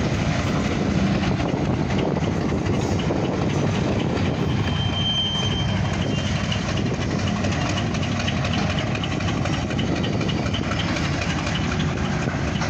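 Oil Creek & Titusville Railroad diesel switcher locomotive running as it slowly moves covered grain hopper cars, with the steady sound of the engine and the cars' wheels on the rails.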